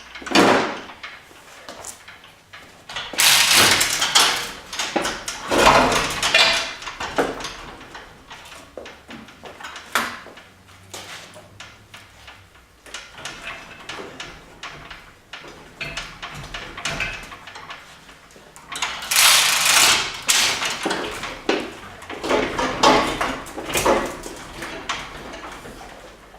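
Irregular metallic clanking, scraping and rattling as the Subaru Impreza engine is worked free of the transmission and pulled. There are loud clusters of noise about three, five to seven, and twenty seconds in, and a single sharp knock about ten seconds in.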